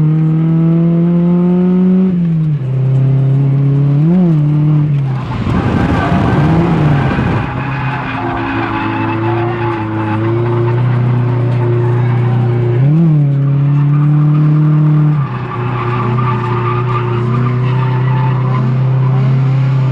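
Drift car engine held at high revs, its pitch dipping and flaring briefly a few times, with tires squealing and skidding. A noisy burst of tire noise swamps the engine about five to seven seconds in.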